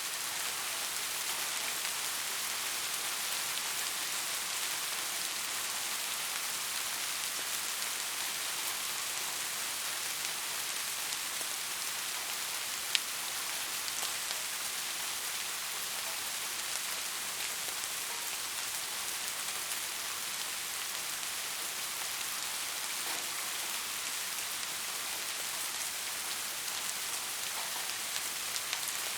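Steady rain falling, an even hiss without pauses, with one sharp tick about 13 seconds in.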